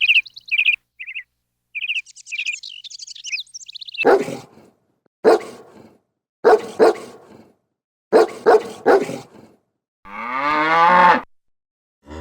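Rapid high-pitched chirping for the first few seconds, then a dog barking: about seven short, sharp barks, some in quick pairs. Near the end comes one long drawn-out call that bends in pitch.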